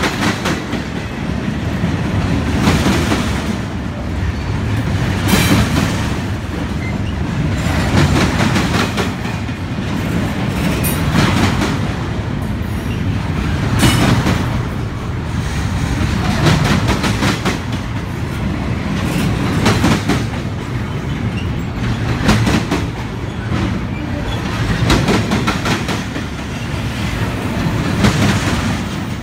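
Union Pacific double-stack container train rolling past, its wheels clacking in clusters that come around every three seconds as each car goes by.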